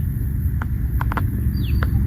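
Steady low outdoor rumble on the shore, with a few sharp clicks in the middle and a faint, short, falling high chirp near the end.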